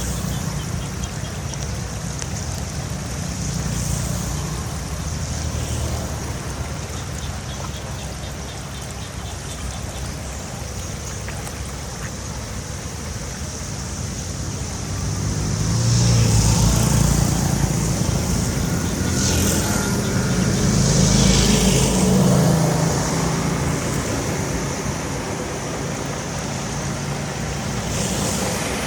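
Rushing, splashing water over a steady low engine rumble, both swelling louder for several seconds in the middle.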